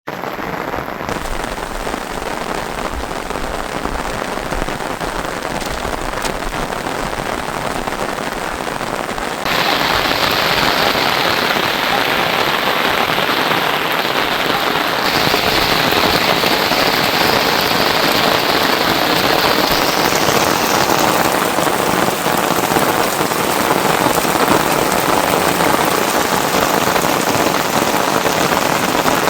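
Steady, heavy rain falling, a dense even hiss that turns abruptly louder about ten seconds in.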